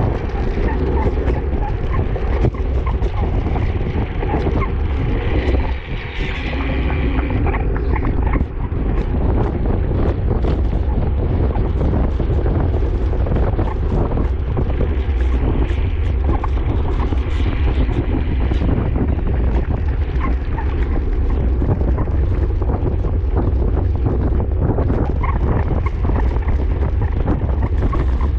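Wind buffeting the microphone of a racing cyclist's camera: a steady low rumble with a hiss of noise over it, from riding at race speed on a wet road.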